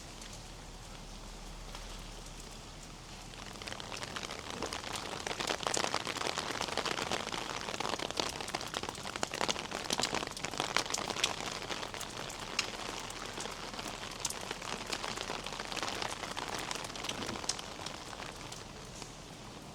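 Rain falling, with many individual drops striking close by as sharp ticks. It grows heavier about four seconds in and eases near the end.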